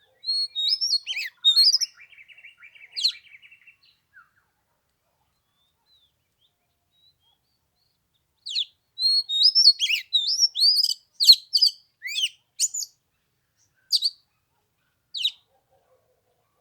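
Oriental magpie-robin singing in two bouts of quick, clear whistled phrases. The first bout ends in a run of harsh, scratchy notes. The second starts about halfway in, and its last few notes come spaced apart.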